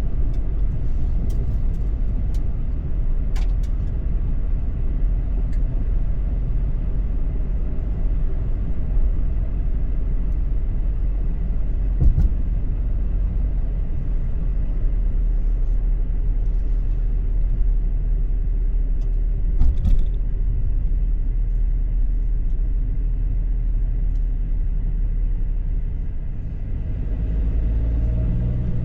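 Car driving on the road: a steady low rumble of road and engine noise, with a few short knocks, and the engine note rising near the end as it speeds up.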